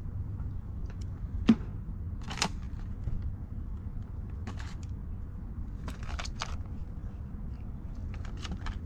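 Rummaging through a dumpster: scattered rustles and clicks, with one sharp knock about a second and a half in, over a steady low rumble.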